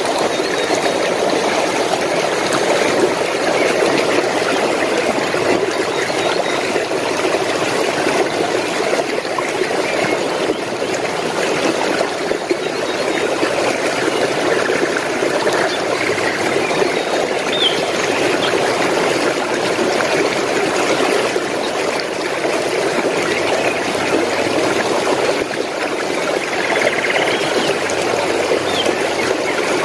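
Flowing stream water babbling and trickling steadily, with a few faint short bird chirps over it in the second half.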